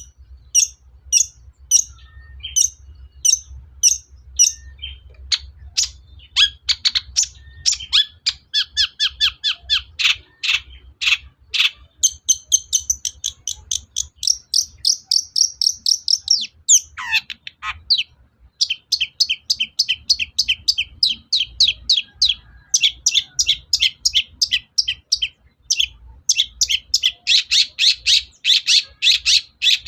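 Long-tailed shrike (cendet) singing in loud, sharp chirps and rattling trills. It starts with evenly spaced chirps about two a second, speeds into fast runs, holds a high trill for a few seconds midway, gives a brief downward slur, and then goes on in rapid chirp series.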